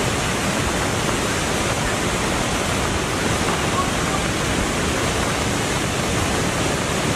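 Steady rushing of fast, swollen floodwater in the Beas River in spate.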